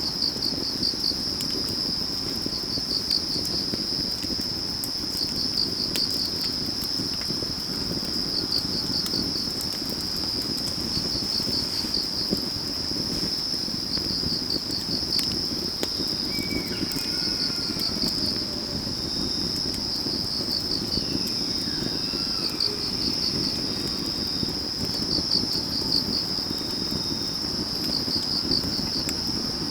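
Autumn field crickets and other insects singing: one steady high trill, with another insect chirping in short pulsed bursts every two seconds or so. Under them, a wood fire burning with a low rush and scattered crackles, and a few faint falling calls a little past the middle.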